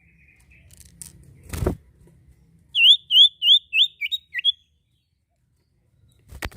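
A sirtu songbird calling: a quick series of about seven rising chirped notes, roughly four a second, the last two dipping lower in pitch. A short knock comes before the series and another near the end.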